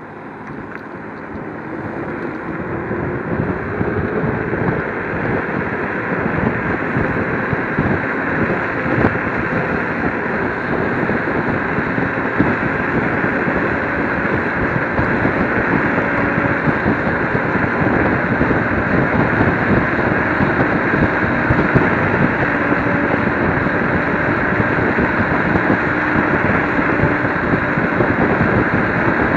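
Wind rushing over the microphone of a moving electric scooter. It builds up over the first few seconds as the scooter picks up speed, then holds steady. A faint whine rises in pitch during the build-up.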